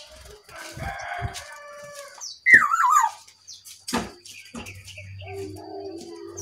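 Bird calls. The loudest is a short wavering call that drops in pitch about two and a half seconds in, and other shorter calls are scattered around it.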